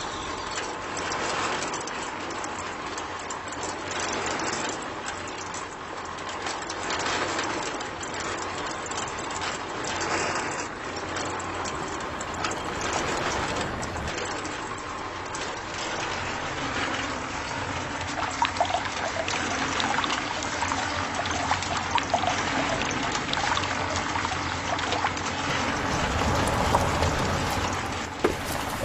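Water running steadily in a continuous gush, with a faint wavering tone in the second half.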